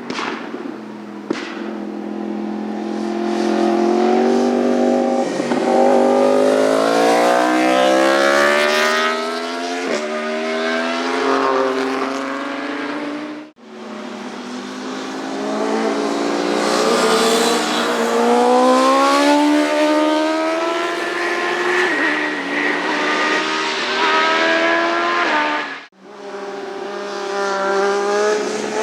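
Motorcycle engines accelerating hard up through the gears on a race track, the pitch climbing and dropping back at each upshift. The sound comes in three passes, each broken off by a sudden cut.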